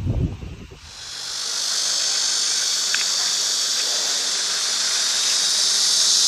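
A short low thump, then about a second in a steady high-pitched hiss sets in and keeps on, growing slightly louder.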